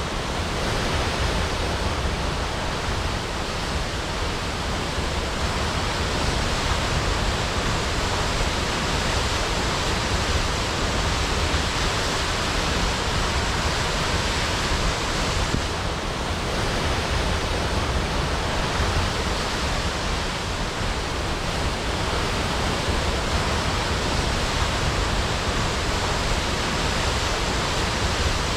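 Waterfall crashing down: a steady, dense rush of falling water, even throughout with slight swells in intensity.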